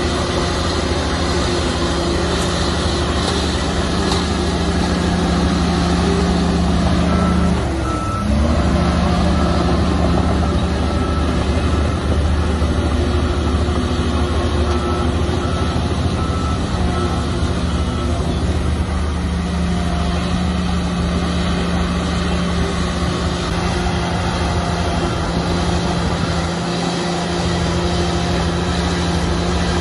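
Heavy diesel engine of a bulldozer running steadily under work. Its note dips and recovers about eight seconds in. A reversing alarm beeps from about seven to eighteen seconds in.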